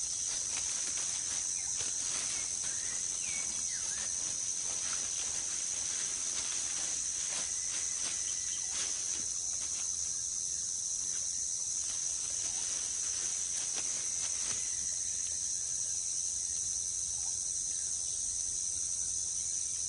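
Steady high-pitched insect chorus of jungle crickets or cicadas, with scattered faint rustles and clicks in the undergrowth.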